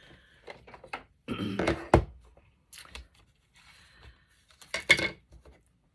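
Rummaging through craft supplies on a tabletop: rustling and handling noises with a sharp knock about two seconds in and another cluster of clatter and knocks about five seconds in.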